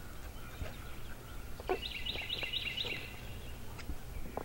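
A bird singing a quick run of about five repeated chirping notes, a little under two seconds in, over a low outdoor rumble, with a few light clicks.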